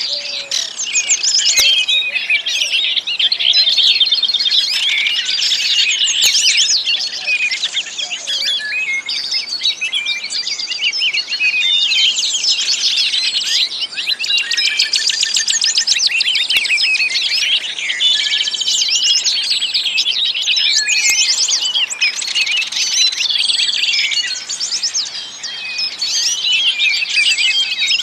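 Many small songbirds chirping and twittering at once, a dense, continuous chorus of quick high calls and trills.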